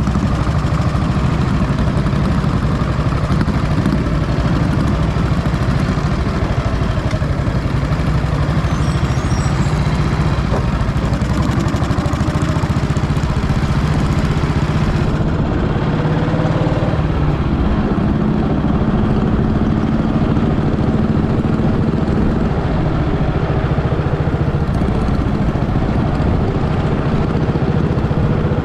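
Vintage motorcycle engine running steadily, with its low, even note holding throughout and some rushing noise over it.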